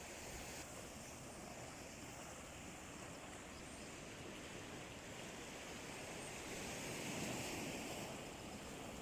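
Sea waves washing on the shore: a steady hiss of surf that swells louder about seven seconds in as a wave breaks, then eases back.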